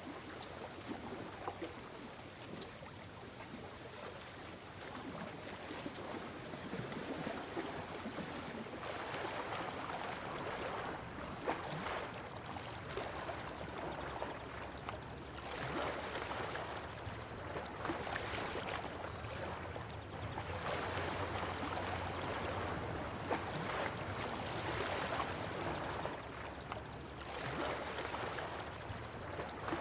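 Sea water washing and rushing along a sailing yacht's hull, swelling in surges every few seconds, over a faint steady low hum.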